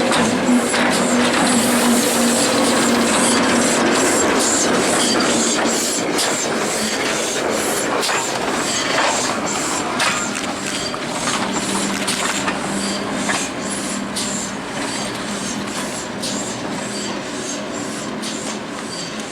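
A train running along the track, its wheels clicking irregularly over the rails through a steady rumbling noise that eases slightly towards the end.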